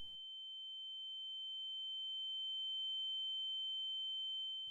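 A steady, high-pitched electronic sine tone sounds alone, with all other sound cut out. It grows slowly louder and then eases off near the end.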